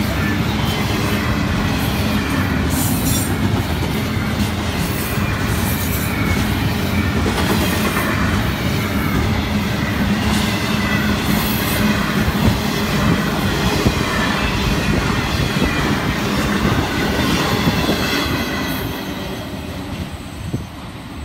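Double-stack intermodal container cars rolling past at close range: a steady rumble and clatter of wheels on rail, with thin wavering wheel squeal. It fades near the end as the last cars pass by.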